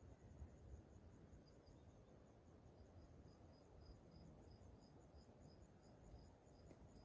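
Faint crickets chirping: a high, even pulse repeating about three times a second, with a second, slightly lower chirp train joining about a second and a half in, over a low background rumble.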